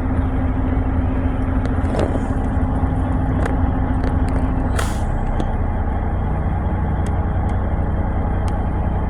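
Idling truck engine with a steady low rumble. A steady hum drops out a little before a short hiss about five seconds in, and there are a few faint ticks.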